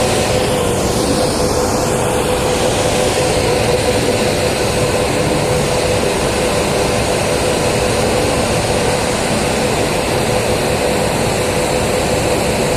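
Heavy construction machinery engine running steadily, with a constant hum held at one pitch.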